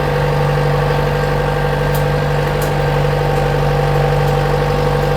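Tractor engine running steadily with an even, unchanging drone.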